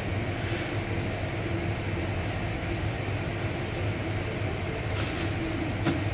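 Steady mechanical hum, as of a running machine or fan, with a short hiss about five seconds in and a sharp click near the end.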